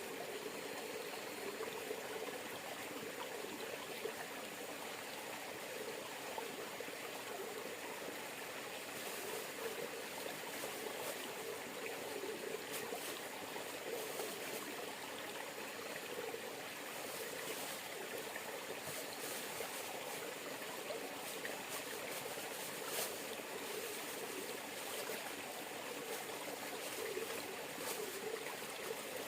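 River water flowing and burbling steadily, with scattered faint ticks over the second two-thirds.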